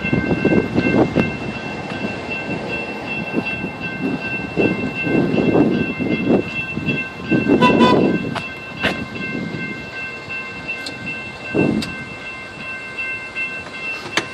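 Train rolling past at a blocked crossing: an irregular rumble and clanking of rail cars, with steady high-pitched ringing tones throughout.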